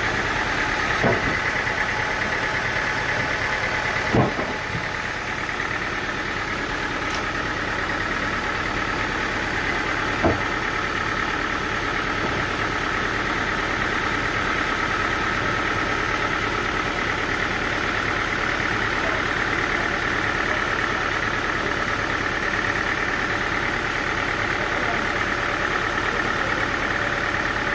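A sawmill's engine running steadily at a constant speed, with three short knocks: about a second in, about four seconds in, and about ten seconds in.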